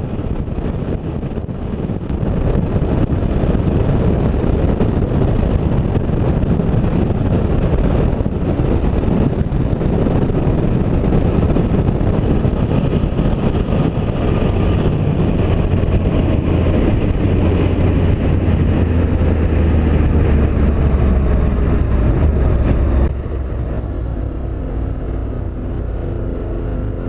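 Motorcycle riding at speed: dense wind and road noise over the engine, with a tone that slowly falls in pitch in the second half. The noise drops in loudness about four-fifths of the way through.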